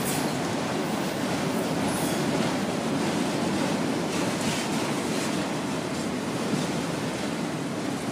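Freight train of enclosed autorack cars rolling past a grade crossing: a steady rumble of steel wheels on the rails with occasional faint clicks as the wheels cross rail joints.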